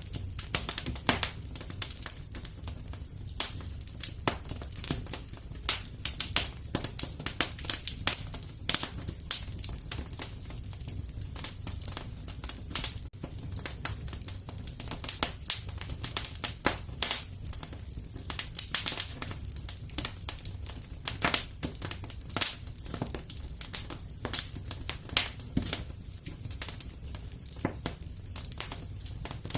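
Wood fire crackling in a fireplace: an irregular stream of sharp pops and snaps over a low, steady rumble.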